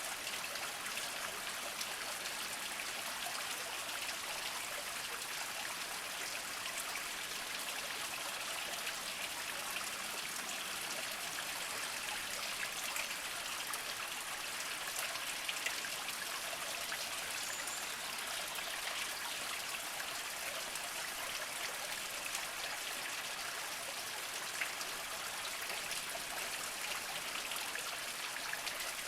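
Small mountain spring trickling over mossy rocks: a steady light run of water with fine drips and splashes through it.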